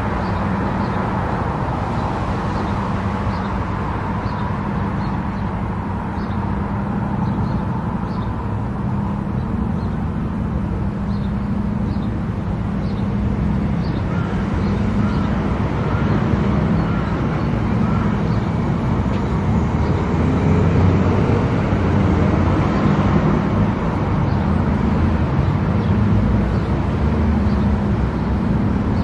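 A car cruising on an expressway: steady engine and tyre noise, growing a little louder about halfway through, with faint light ticks in the first half.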